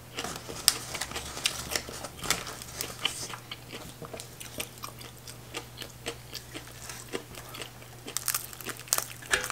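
Close-miked chewing of a mouthful of crunchy raw greens: a steady run of small wet crunches and mouth clicks. Near the end, sharper crackling as a crispy fried fish is pulled apart by hand.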